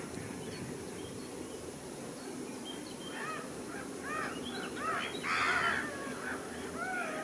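Birds calling: a run of short, arched calls starting about three seconds in, with a harsher, noisier call near the middle, over a steady low background noise.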